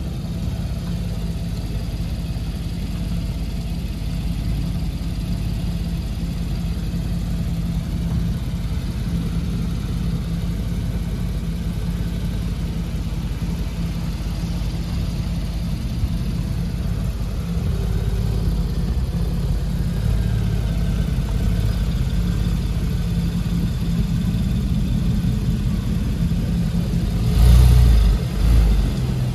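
Porsche 911 Carrera 4 GTS's flat-six engine idling steadily, with one brief louder burst about two seconds before the end.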